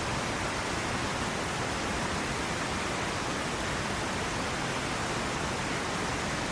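Steady rushing of water, an even hiss with no distinct drops, splashes or breaks.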